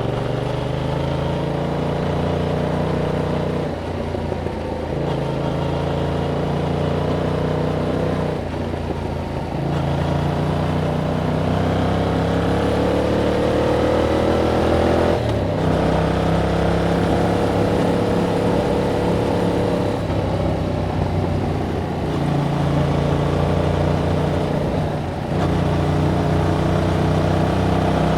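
Yamaha MT-07's 689 cc parallel-twin engine through its stock exhaust, under way: revs held steady in stretches, broken every few seconds by short dips as the rider shifts or rolls off the throttle, with one long climb in revs about halfway through.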